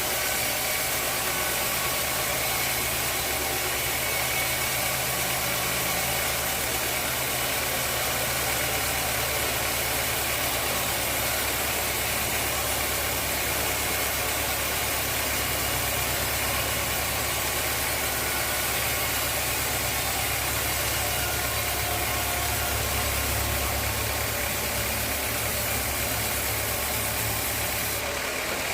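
Sawmill machinery running steadily: a constant low motor drone under an even mechanical noise.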